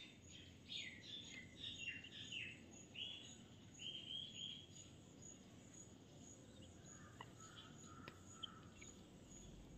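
Faint bird chirps: a run of short, falling chirps over the first four seconds or so, then near silence. A faint high tone pulses about twice a second throughout.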